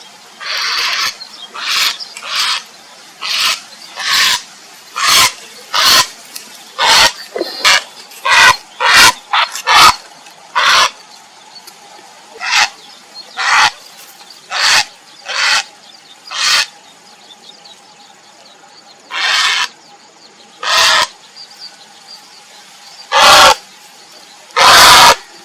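Grey heron giving a string of short, harsh calls in irregular succession, with a pause about two-thirds of the way through and the loudest calls near the end.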